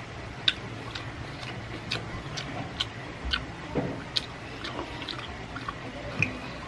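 Close-up mukbang eating sounds: wet mouth clicks and lip smacks while chewing soft Korean steamed egg (gyeranjjim) eaten from chopsticks, coming irregularly every fraction of a second. A steady low hum runs underneath.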